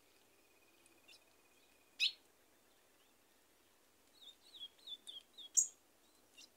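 Songbirds calling: a thin, steady buzzing trill stops about two seconds in, just as a single sharp call rings out. Near the end comes a quick run of short falling whistled notes, followed by a couple of high, sharp chips.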